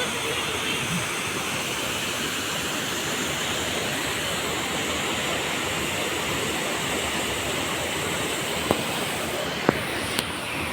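Steady rush of a waterfall's falling water, with a few sharp clicks about three-quarters of the way through.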